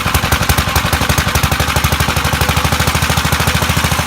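Engine running with a rapid, even, pulsing exhaust beat and a steady low drone underneath.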